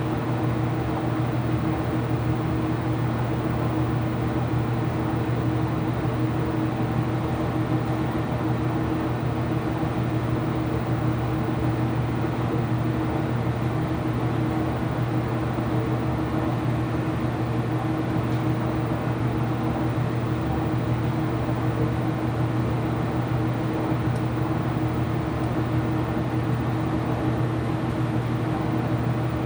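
Ipso washing machine running with a steady, even hum that does not change.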